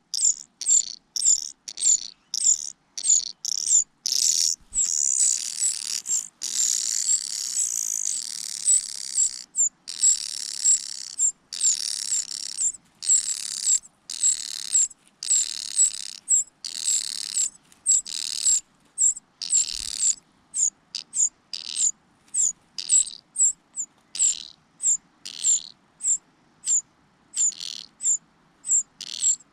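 Nestling birds begging for food, a cuckoo chick among them. Short, very high peeps come about twice a second throughout, and a continuous raspy, hissing begging chorus swells up in the middle.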